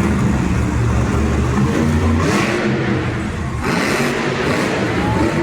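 Monster truck's supercharged engine revving hard, its deep low rumble falling away about two seconds in while a higher engine rush surges twice.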